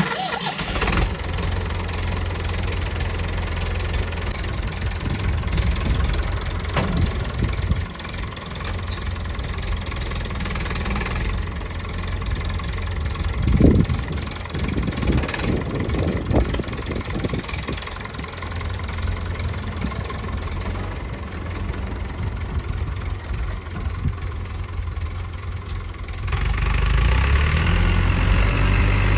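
Massey Ferguson 165 tractor engine running steadily at low speed, getting louder near the end.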